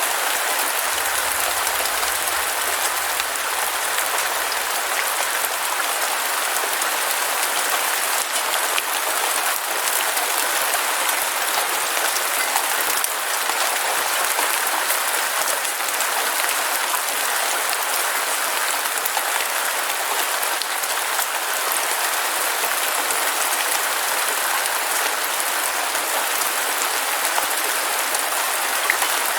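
Heavy rain falling steadily: a dense, even hiss of many fine drops pattering.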